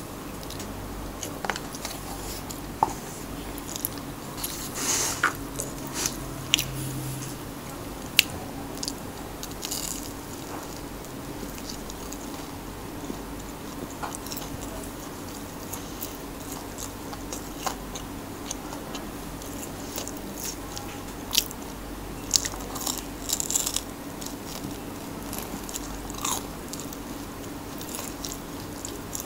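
Close-miked eating: crunchy bites into a breaded corn dog and chewing, with scattered sharp crunches and a steady low hum underneath.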